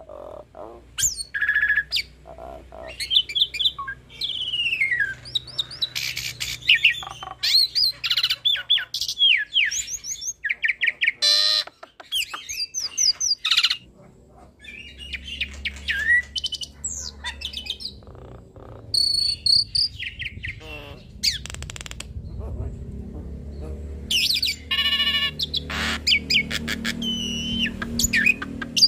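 Hybrid Nias hill myna × Asian pied starling singing a loud, varied song of whistles, gliding notes, sharp chirps and rapid rattling trills, packed with mimicked fills. A faint low hum runs underneath from about halfway through.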